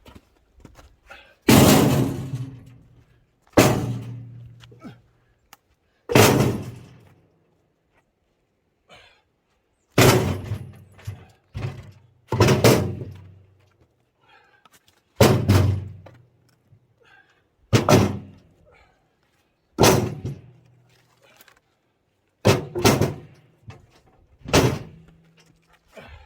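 Cut firewood logs being thrown down one after another: about a dozen heavy thuds, roughly two seconds apart, some followed by a brief low ringing.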